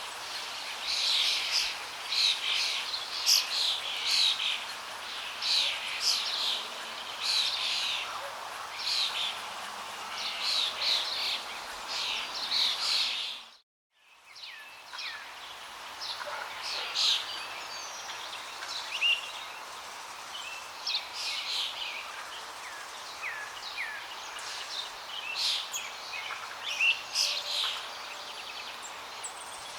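Many small birds chirping and twittering rapidly over a steady rush of flowing water. About halfway through, the sound cuts out for a moment and then fades back in.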